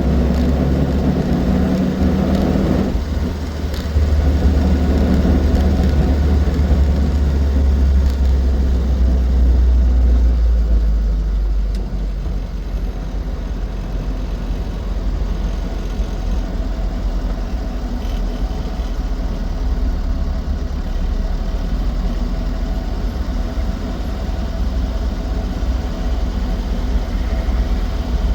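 Austin 7 Ruby's small four-cylinder side-valve engine running on the road, with a strong low drone that eases off about eleven seconds in and then holds steady.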